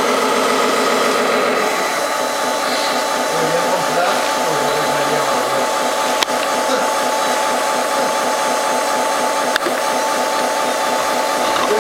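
Tamiya Scania 6x6 radio-controlled model truck running during unloading: a steady electric motor whine whose pitch shifts about two seconds in, with a couple of faint clicks later on.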